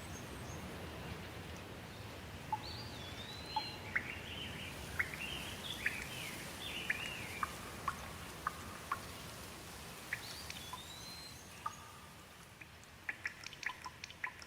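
Steady rain with a bird calling over it in short chirps and phrases that rise and fall in pitch. Near the end the rain hiss thins and close, sharp water drips take over.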